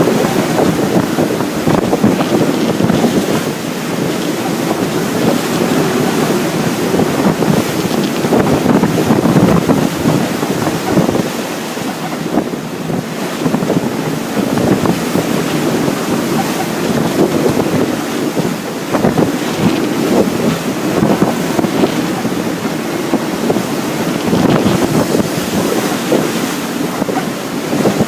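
Strong storm wind buffeting the microphone over the rush of waves and water around a small sailing boat.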